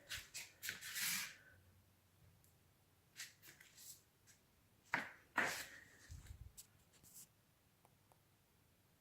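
Scattered sharp metallic clicks and knocks, with a louder pair about five seconds in, as the metal leaves and handles of a fireplace door are worked.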